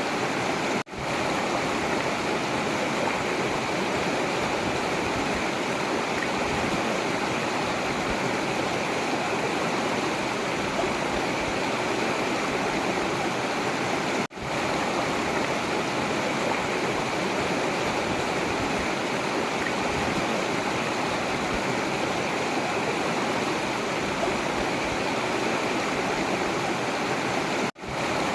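Forest river flowing: a steady, even rush of running water. The sound dips out for an instant three times, about a second in, midway and near the end.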